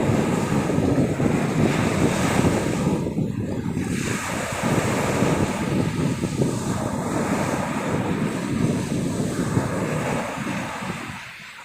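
Sea surf washing ashore, with wind buffeting the microphone; it eases near the end.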